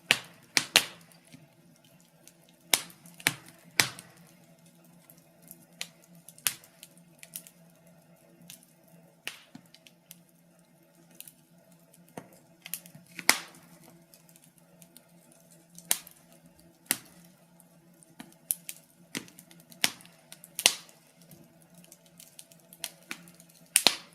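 Wood fire crackling in a fireplace: irregular sharp pops and snaps, a handful much louder than the rest, over a faint steady low hum.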